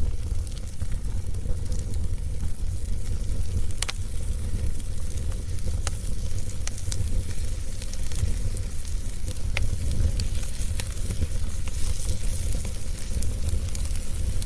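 Fire crackling in a fireplace: a steady low rumble and hiss with scattered sharp pops and snaps.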